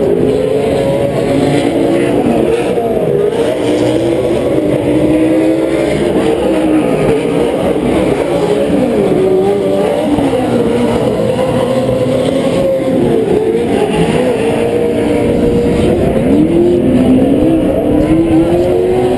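Several PRO 4 off-road racing trucks' V8 engines running hard together, their overlapping notes repeatedly rising and falling as the drivers work the throttle and shift through the turns.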